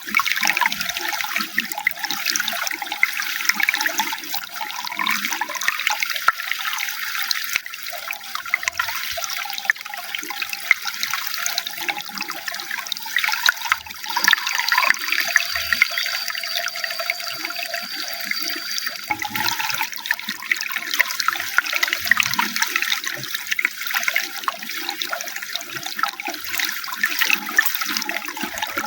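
Running water splashing and trickling steadily, a continuous rush that sits mostly high in pitch. A faint thin high tone is held for about five seconds midway.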